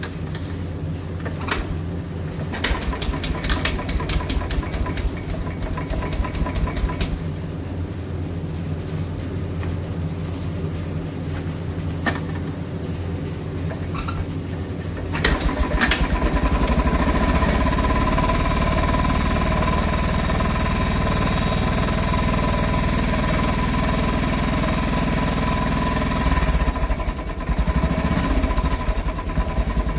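Motorcycle engine idling with a steady beat after a warm-up start. About halfway it suddenly gets louder and runs on steadily, with a few rises and falls in level near the end.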